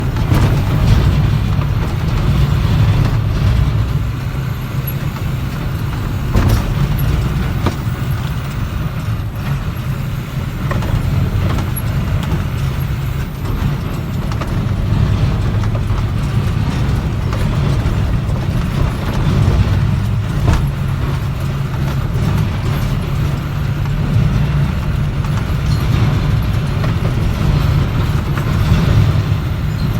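International dump truck engine running steadily as the truck drives over a rough road, with scattered knocks and rattles as it jolts over the bumps.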